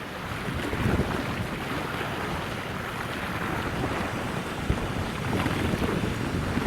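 Wind buffeting the microphone in uneven gusts, a low rumbling rush with no engine or horn tone standing out.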